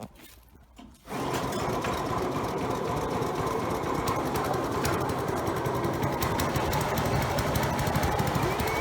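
196cc Predator single-cylinder four-stroke engine driving a jet-drive pump, running steadily at a rapid chugging beat; it comes in abruptly about a second in.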